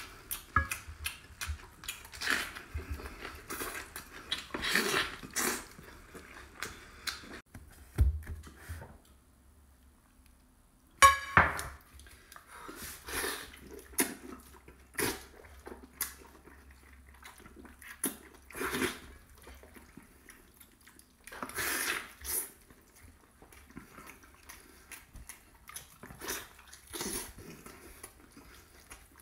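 Close-miked eating sounds of braised pork being bitten and chewed: wet chewing and lip smacking in short, irregular bursts, with a brief quiet gap about nine seconds in followed by one sharp, loud smack.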